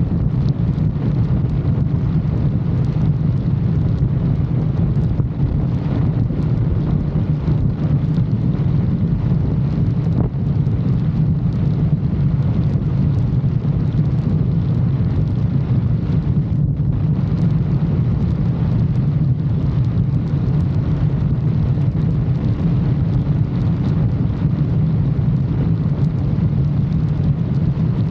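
Motorcycle engine and exhaust running steadily at an even pitch, with wind noise on the microphone.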